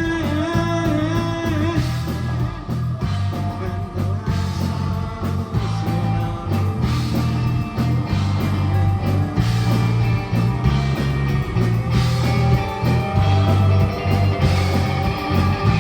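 A live rock band playing: electric guitar over a steady, loud bass and drums, with a sung or wavering lead line near the start.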